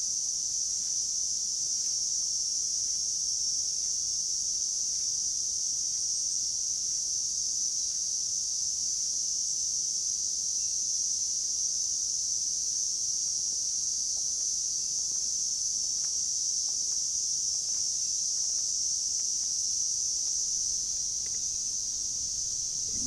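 Summer insect chorus: a steady, high-pitched drone that carries on without a break.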